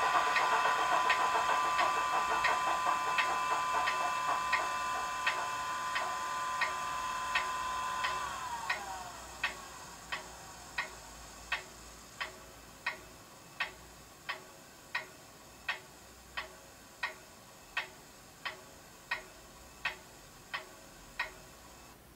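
Class 24 model locomotive's DCC sound of a Sulzer diesel idling and winding down through a small speaker, its background whine falling in pitch and dying away about eight seconds in. A steady sharp ticking, about one tick every 0.7 seconds, continues on its own afterwards.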